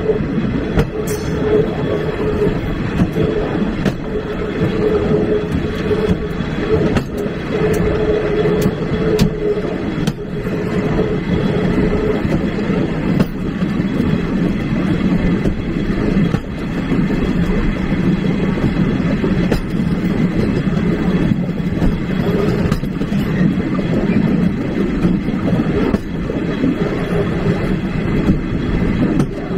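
Train carriage rolling along the track, a steady rumble heard from the rear of the last carriage. A steady tone rides over the rumble for roughly the first twelve seconds.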